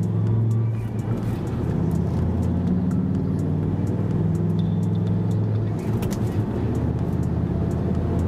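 2004 Dodge Ram SRT-10's 8.3-litre V10, the Viper engine, running steadily as the truck is driven, with a brief drop in level about one second in and again near six seconds.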